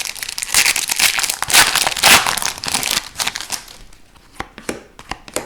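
Foil wrapper of an Upper Deck hockey card pack crinkling as it is torn open, followed from about three seconds in by scattered light clicks of cards being handled.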